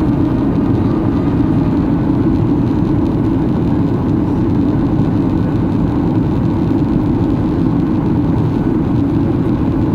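Steady cabin noise inside a Boeing 737-800 on approach: the CFM56 jet engines and the rush of air over the fuselage make an even, deep roar, with no change in pitch or loudness.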